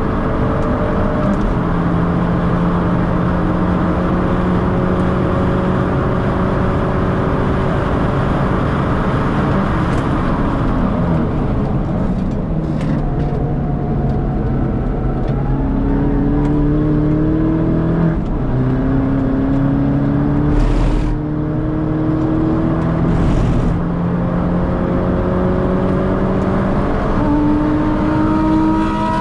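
Turbocharged 1.6-litre four-cylinder engine of a modified Mini Cooper S R56 at hard throttle on track, heard from inside the cabin, its pitch climbing through the gears and dropping at each gear change. The revs fall about eleven seconds in before it accelerates again, over a constant rush of tyre and wind noise.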